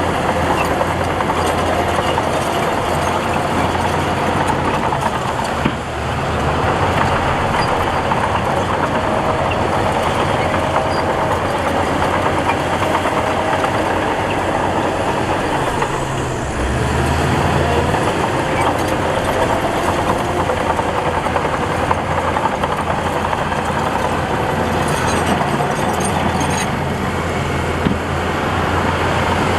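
Heavy diesel earthmoving machinery running steadily under load, its low engine note shifting about halfway through. A sharp knock about six seconds in and another near the end.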